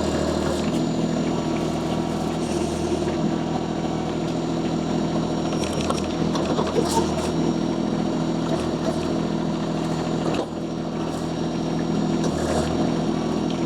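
Mini skid steer loader's engine running steadily, with a few scattered knocks. The engine sound dips slightly about ten and a half seconds in.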